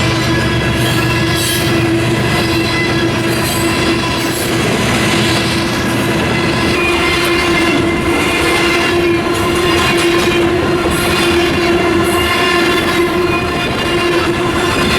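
A train running by: a steady, long-held horn-like tone over the rumble and clatter of the wheels on the rails.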